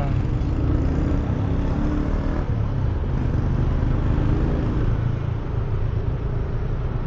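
Motorcycle riding noise picked up by a lavalier mic under a balaclava inside a closed half-face helmet: a steady, heavy low wind rumble, with the bike's engine and surrounding traffic running underneath.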